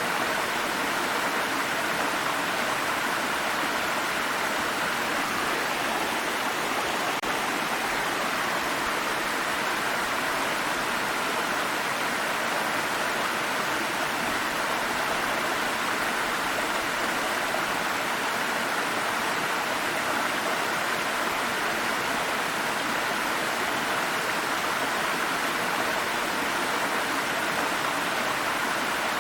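Water stream flowing over rocks: a steady, even rush of running water with no breaks.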